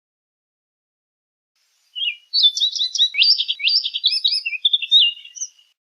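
Orchard oriole singing one rapid, varied song of quick whistled notes and slurs, starting about two seconds in and lasting about three and a half seconds.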